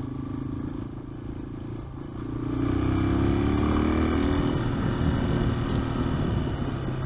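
Yamaha XT225's single-cylinder four-stroke engine running, then accelerating about two seconds in, its pitch rising as it gets louder.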